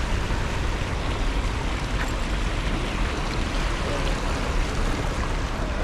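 Fountain water splashing and rushing in a steady, even wash.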